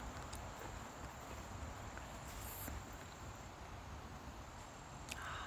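Faint outdoor ambience: a steady high-pitched insect trill, like crickets, over a low rumble of wind on the microphone, with a few faint ticks.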